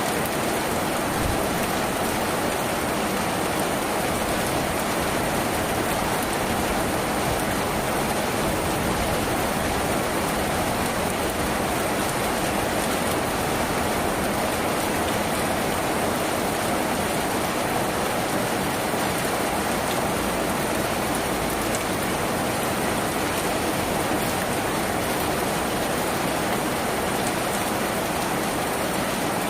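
Steady, even rain on a tin roof, heard from inside.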